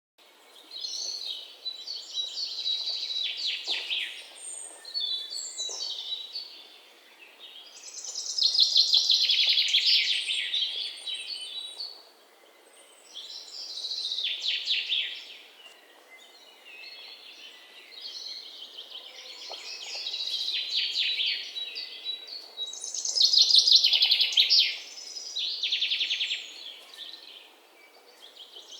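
A songbird singing in repeated phrases of rapid, high chattering notes, each a few seconds long with short pauses between.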